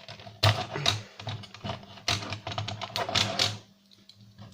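Quick, irregular clicks and clatter of a DVD player's disc-drive mechanism being handled during disassembly, small plastic and metal parts knocking together. It dies down for the last second.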